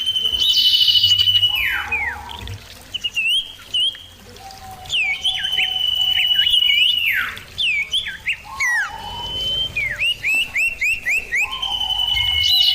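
Common ioras singing and answering each other with clear, loud calls. Long whistles are held at one pitch, sharp down-slurred notes break in among them, and a quick run of short notes comes near the end.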